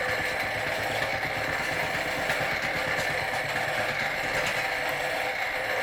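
Huxtable hot air Stirling engine running steadily on a turned-down gas flame, with a fast, even mechanical clatter from the engine and the belt-driven model fairground rides.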